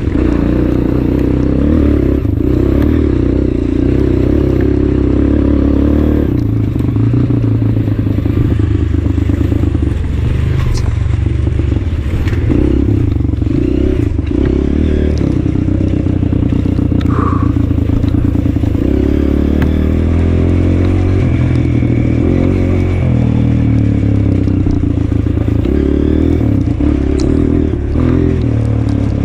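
Honda CRF230F's air-cooled single-cylinder four-stroke engine running under riding load, its revs rising and falling, with some clatter.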